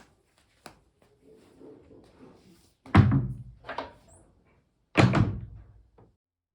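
Two loud thumps about two seconds apart, with a lighter knock between them, after some faint rustling and handling noise.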